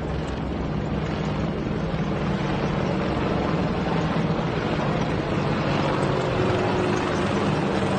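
Helicopter flying past, a steady mix of rotor and turbine engine noise that grows slightly louder.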